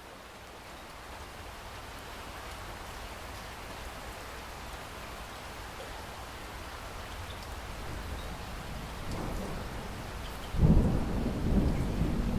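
Steady rain that slowly grows louder, with a low rumble of thunder building beneath it. About ten and a half seconds in, a loud crack of thunder breaks and rolls on.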